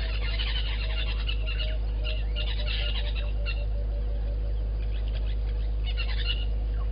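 Birds calling: a run of soft, low hooting notes that come faster and slightly lower over the first few seconds, with high chirps and twitters from small birds throughout. A steady low hum runs underneath.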